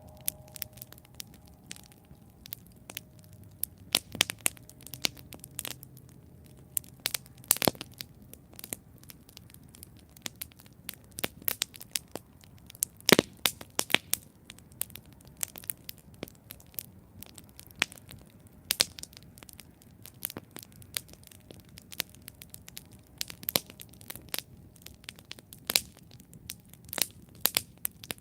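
Wood campfire crackling: irregular sharp snaps and pops over a low hiss, with one louder pop about thirteen seconds in.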